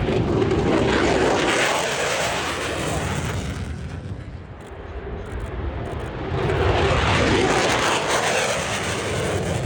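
Two F-16 fighter jets passing one after the other, their single-engine jet noise swelling up twice as each goes by.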